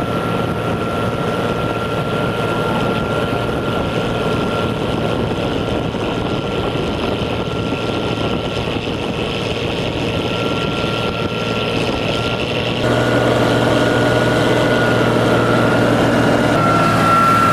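Ferry boat's engine running steadily, with a thin steady whine above its drone. It grows louder about thirteen seconds in.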